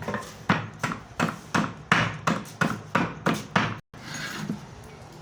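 Rapid, regular hammer blows on wood, about three a second, while the wooden frame is being nailed together; they stop abruptly about four seconds in.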